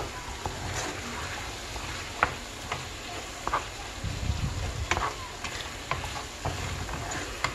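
Lamb tripe with onion and green peppers sizzling as it is sautéed in a nonstick frying pan, stirred with a wooden spoon that scrapes and clicks against the pan every second or so.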